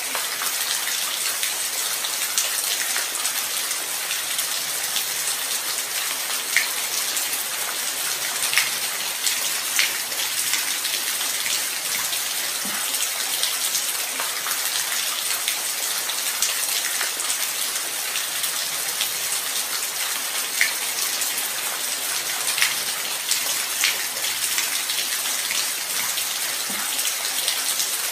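Steady light rain: an even hiss of falling rain with scattered louder individual drops pattering on a surface.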